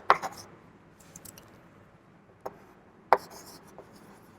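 Writing on a board: a few sharp taps, one at the start and two more a little past halfway, with faint strokes between.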